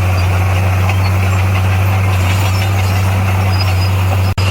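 Heavy earthmoving machine's diesel engine running steadily at a constant pitch, with a momentary break in the sound near the end.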